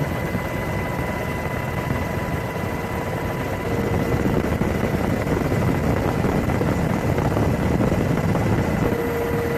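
Steady engine noise with a constant high whine, a little louder from about four seconds in.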